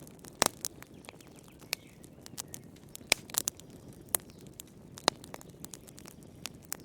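Wood fire crackling: irregular sharp pops and snaps over a steady low hiss, with a few louder pops.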